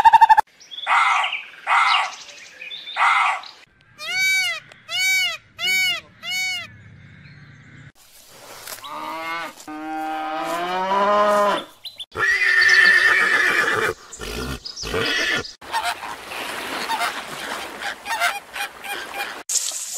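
A run of different farm-animal calls, one clip after another: three short rough calls, then four short rising-and-falling cries, then a longer wavering call, then louder mixed calls.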